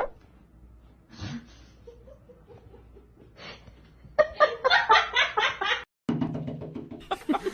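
A person laughing in a run of rapid short bursts. It breaks off suddenly about six seconds in and starts again a moment later.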